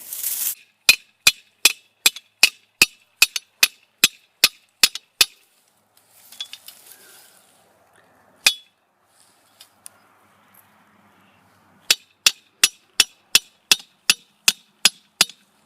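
Hammer striking metal in two runs of steady, evenly spaced blows, about three a second, each with a short ringing clink, and a single blow between the runs.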